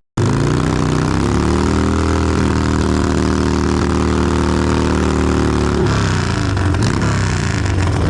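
A vehicle engine running at raised speed, holding steady before easing off about six seconds in. It starts and cuts off abruptly.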